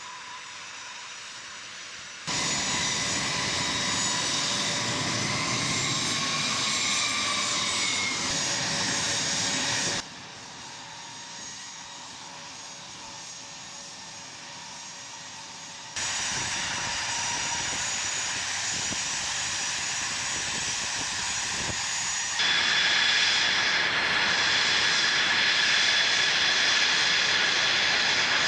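A-10 Thunderbolt II's twin turbofan engines, a steady rush with a high whine as the jet flies its display. The loudness jumps up or down abruptly every few seconds, and it is loudest near the end.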